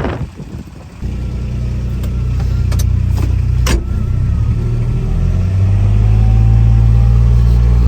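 A vehicle engine starts up about a second in and keeps running with a low, steady drone that grows gradually louder.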